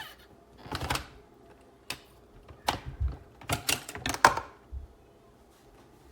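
A series of irregular sharp clicks and knocks of hard objects being handled, clustered most densely a little past halfway.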